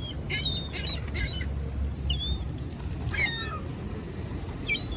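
Birds chirping in short, scattered calls that slide in pitch, about half a dozen across the few seconds, while they are being thrown scraps of food.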